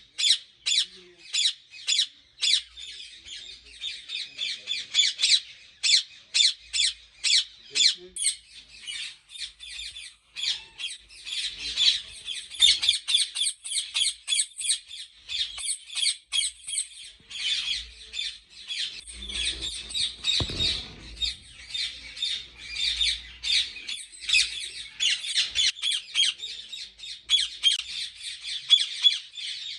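A flock of ring-necked parakeets squawking, shrill calls overlapping in quick succession, several a second.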